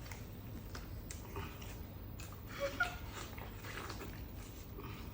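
People eating watermelon fast: wet biting, slurping and chewing, with scattered short sharp clicks and a brief pitched sound a little past halfway.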